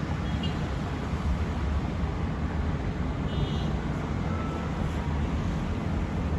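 Steady city road traffic mixed with wind rumbling on the microphone. A brief high squeak comes a little past halfway.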